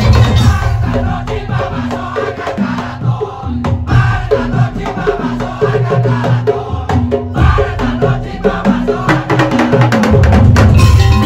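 Madurese daul tongtong music: a percussion ensemble of slit drums, drums and gongs playing. A lighter passage of short, repeated melodic notes gives way to the full, loud band again about ten seconds in.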